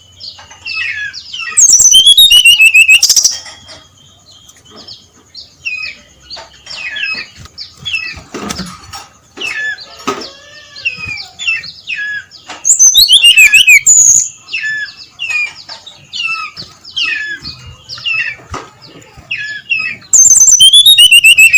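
Brown-chested jungle flycatcher singing: a steady run of short, sharp whistled notes, broken three times (about two seconds in, around thirteen seconds, and near the end) by a much louder, very fast trilling burst lasting about a second and a half.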